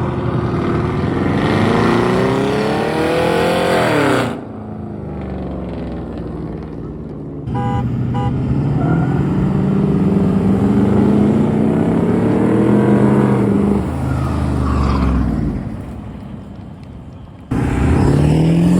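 Pickup truck engines revving hard, the pitch climbing and dropping as they are pushed through slides, heard in several segments that cut off abruptly. A brief double tone sounds about eight seconds in.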